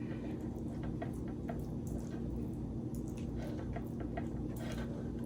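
Faint, soft wet dabs and ticks of a brush spreading melted parmesan butter over slider buns, over a steady low hum.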